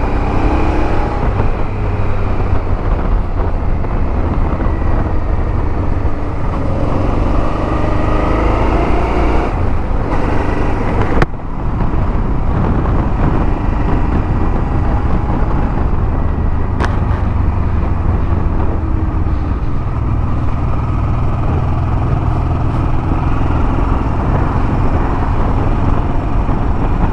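Motorcycle engine under way, with steady wind and road noise. Its pitch rises and falls with the throttle and gear changes through the first ten seconds or so, then it settles to a steadier cruise. There is a sharp click about eleven seconds in.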